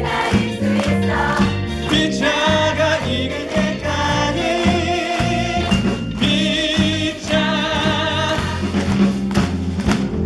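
Voices singing a musical-theatre song over instrumental accompaniment with a steady bass beat, holding long notes with vibrato.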